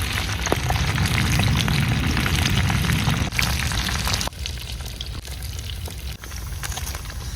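Chicken frying in hot oil: a dense sizzle with fine crackles and pops, dropping somewhat in level a little over halfway through.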